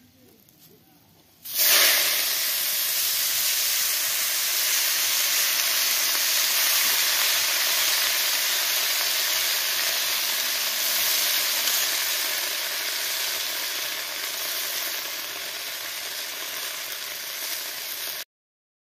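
Shredded vegetables dropped into hot oil in a metal wok: a sudden loud sizzle starts about a second and a half in and goes on steadily, easing a little near the end, then cuts off suddenly.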